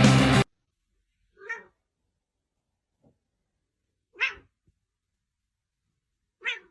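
Three short animal calls, each lasting about a third of a second and spaced a couple of seconds apart, after background music cuts off about half a second in.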